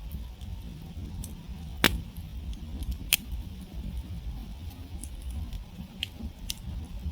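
Campfire crackling as its wood burns, with two sharp pops a little over a second apart near the start and a few smaller snaps near the end, over a low steady rumble of the fire.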